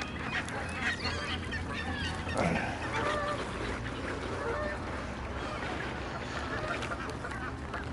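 A large flock of geese calling, many short honks overlapping, with a few louder calls a couple of seconds in.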